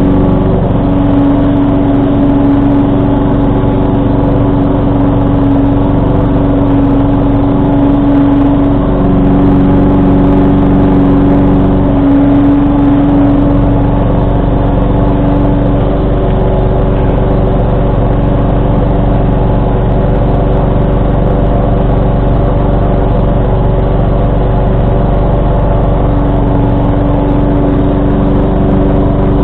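John Deere 445 garden tractor's Kawasaki V-twin engine running steadily with its 47-inch snowblower working. The engine note shifts slightly in pitch a few times.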